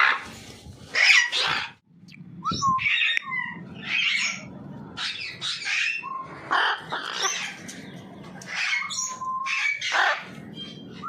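Macaw parrot calling in a run of harsh squawks, mixed with a few short whistled notes.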